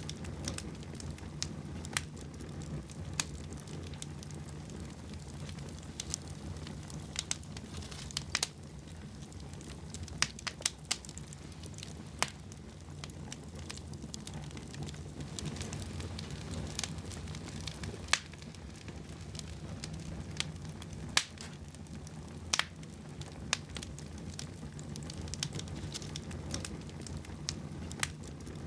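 Fire burning in a fireplace, crackling with irregular sharp pops over a low, steady rumble of flames.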